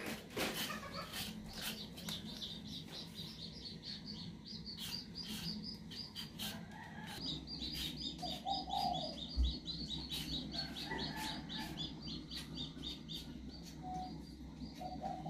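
Birds chirping in quick, repeated high notes, busiest in the second half, with a few lower clucking calls and scattered sharp clicks.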